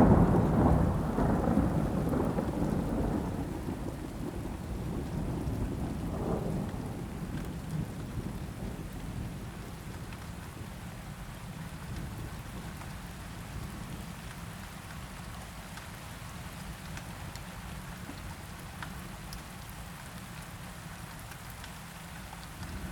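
Thunder rumbling and fading away over the first few seconds, with a smaller roll about six seconds in, over steady rain falling.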